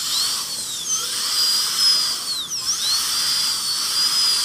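Dental drill whining at a high pitch, the pitch dipping briefly twice, about a second in and again past the middle.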